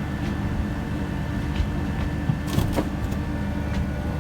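Steady low drone of a ship's machinery, with a few light clicks and knocks a little past the middle.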